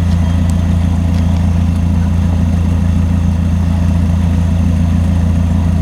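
Diesel locomotive engine idling: a loud, steady low drone that holds unchanged.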